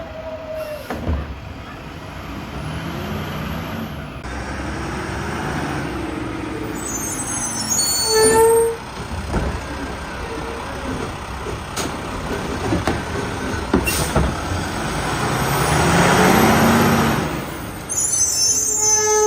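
Heil RevAmp garbage truck with a Boivin Evolution automated arm, which runs without hydraulics, working a curbside pickup: the diesel engine runs under slowly rising and falling motor whines as the arm cycles, with knocks from the cart. A short beep comes about eight seconds in, and a hiss swells and fades near the end.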